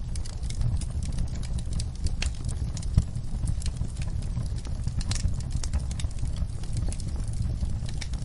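Wood fire burning in a fireplace: a steady low rumble of the flames with irregular crackles and snaps, one sharper pop about three seconds in.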